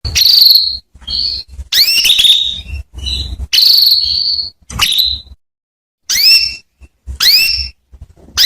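Female canary calling: a string of short chirps, each a quick rising whistle, repeated about once a second with brief silent gaps between.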